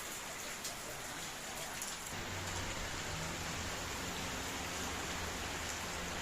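Steady rain falling, an even hiss, with a low steady hum coming in about two seconds in.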